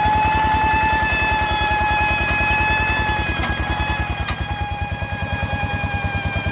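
Rice-field tractor's diesel engine running steadily, with an even beat of about ten pulses a second and a steady high whine over it.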